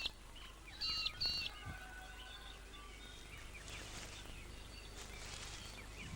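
Wild birds calling over a steady outdoor background hiss: two quick runs of high chirps about a second in, then fainter scattered calls.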